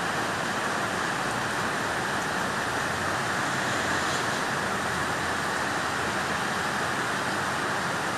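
Heavy rain coming down hard in a steady, even hiss.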